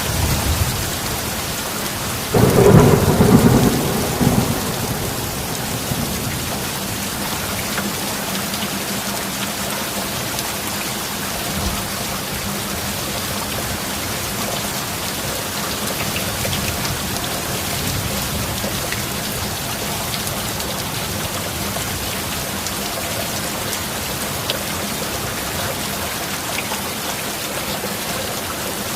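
Steady rain with a thunderclap about two and a half seconds in that rumbles for a couple of seconds and fades, then rain alone.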